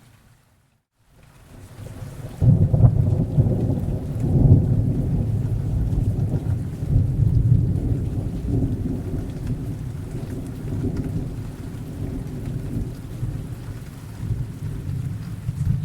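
Thunderstorm: rain falling, then a long roll of thunder that breaks in loudly a couple of seconds in, peaks soon after and rumbles on, slowly fading. A brief silent drop-out comes just before the thunder.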